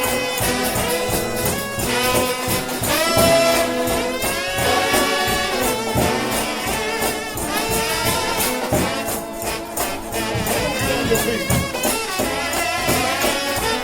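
Trombone shout band playing an up-tempo 4/4 gospel shout tune, several horns in harmony over a steady drum and cymbal beat.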